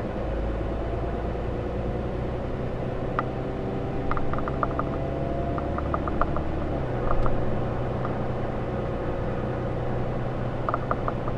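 6.7-litre Cummins inline-six turbo diesel of a 2013 Ram 3500 pulling the truck along under way. Its drone slowly rises in pitch, drops once about two-thirds of the way through as the six-speed automatic shifts up, then climbs again, with scattered light clicks.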